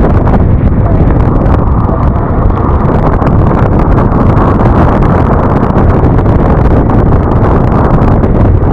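Steady wind rush buffeting the microphone of a Yamaha NMAX scooter riding along the road, with engine and road noise underneath.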